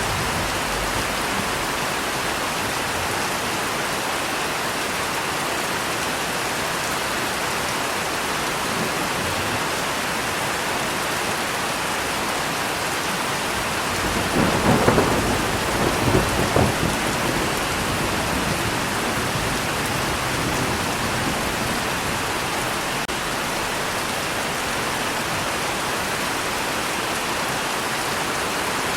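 Steady heavy rain hiss, with a roll of thunder about halfway through that swells twice over a few seconds and then fades back into the rain.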